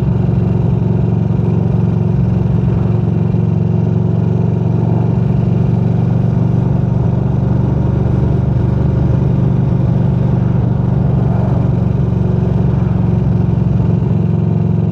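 Motorcycle running steadily at a constant cruising speed while being ridden, with an even drone that neither rises nor falls.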